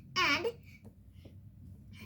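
A child's voice gives one short, untranscribed word or exclamation, then a quiet room with a few faint clicks.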